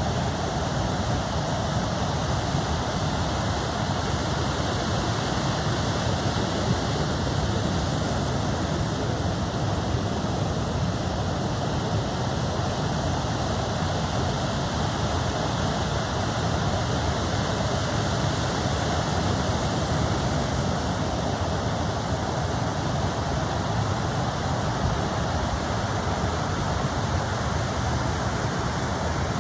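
Steady rush of ocean surf breaking on the shore: an even, unbroken noise with no separate wave sets standing out.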